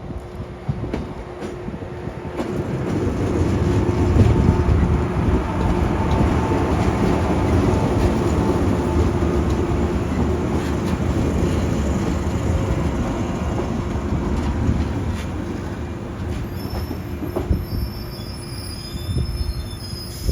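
113 series electric train rolling through the station; its running noise builds, holds, then eases. Near the end, high steady wheel squeal sets in as it takes the track at low speed.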